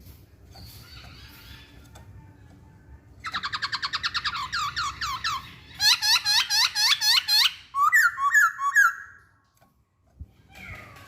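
Masked laughingthrush (Poksay Hongkong) calling: after a quiet start, a fast run of repeated chirps, about ten a second, sets in about three seconds in. It turns into louder looping notes and ends with a few short notes.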